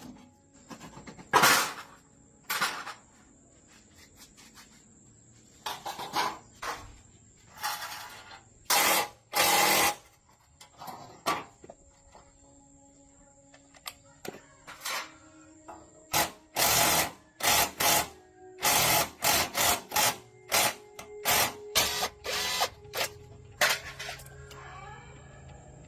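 Workshop tool noises on metal engine parts: irregular short knocks and scrapes, some up to about a second long, with pauses between them.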